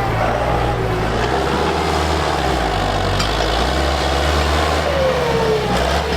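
Tractor engine running steadily with a deep low hum, and a short falling squeal about five seconds in.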